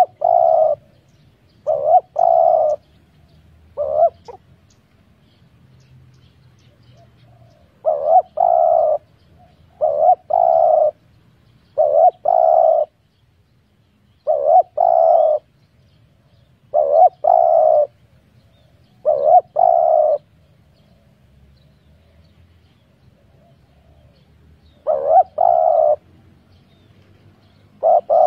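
Spotted dove cooing: short phrases of two or three low coo notes, each phrase about a second long, repeated every couple of seconds with a few longer pauses.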